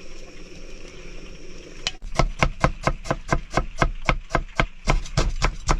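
A kitchen knife chopping rapidly and evenly on a cutting board, about five strokes a second, starting about two seconds in over a low steady background hiss.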